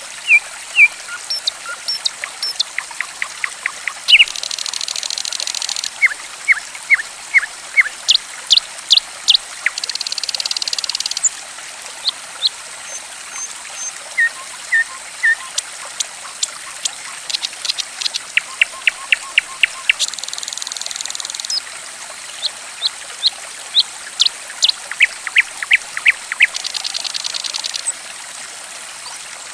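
Songbird calling over a steady trickle of flowing water: loud, sharp chirps, many in quick runs, broken four times by a buzzy trill lasting about a second and a half. The song is used as a lure to prompt caged birds that have gone quiet to start singing.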